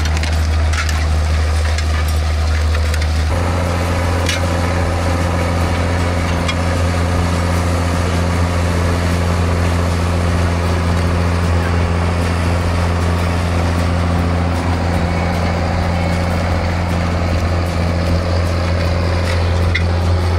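John Deere tractor engine running steadily while working the field, its note changing abruptly about three seconds in.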